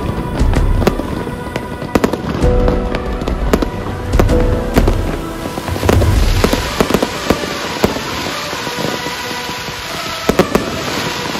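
Fireworks being fired in quick succession: a string of sharp pops and bangs over a low rumble, giving way about six seconds in to a steadier hiss with scattered pops.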